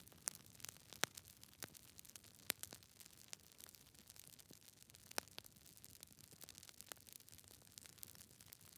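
Wood fire burning in a fireplace, its logs crackling with irregular sharp pops and snaps over a faint low rumble of the flames.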